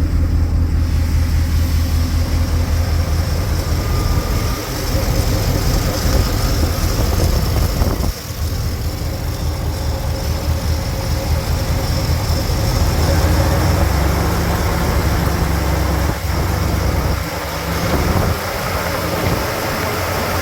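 2007 GM 4.8-litre gasoline V8 engine running steadily at a low, even speed, with a deep low hum.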